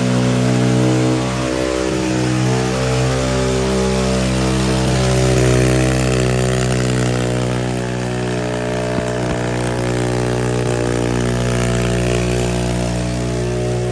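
Pit bike engine held running at steady revs, deliberately over-revved in an attempt to blow it up. The pitch stays nearly constant with only slight wavering.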